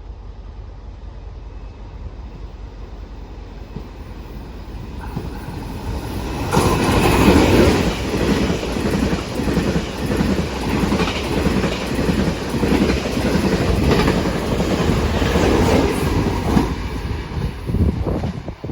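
A train passing, its wheels clattering over the rails. It grows louder about four seconds in, stays loud for about ten seconds, then falls away near the end.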